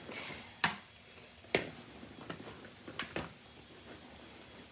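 Handling noise from baseball gear being moved around: four sharp clicks or knocks, the last two close together, over a faint room hiss.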